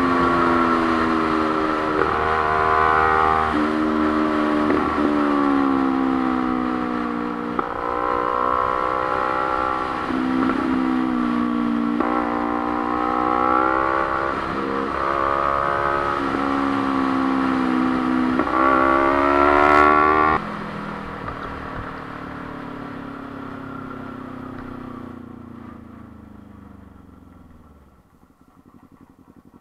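Motorcycle engine heard from the rider's own bike, pitch climbing and then dropping back several times as it runs through the gears. About two-thirds through it drops away abruptly and fades, the revs falling as the bike slows.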